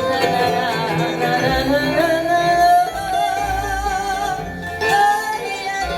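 Live band music: an acoustic pop band playing, with a wavering melody line held over the accompaniment and a bass entering about a second and a half in.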